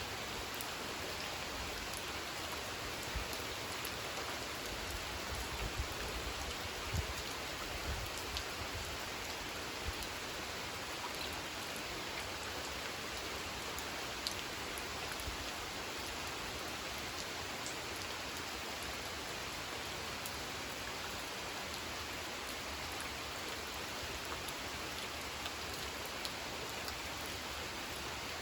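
Steady rain falling on a pond, a dense even hiss with scattered close drop ticks. A few soft low thuds come between about three and ten seconds in.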